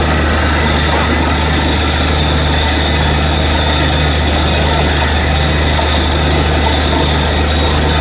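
Borewell drilling rig running steadily under load: a loud, even machine noise with a deep hum and a faint pulse about once a second.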